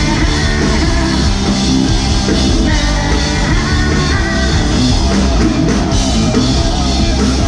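Rock band playing live and loud, with a drum kit.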